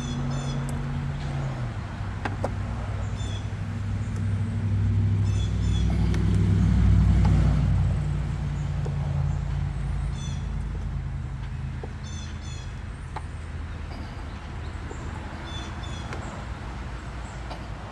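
A motor vehicle's engine running nearby, growing louder to a peak about seven seconds in and then fading away as it passes. Birds chirp over it.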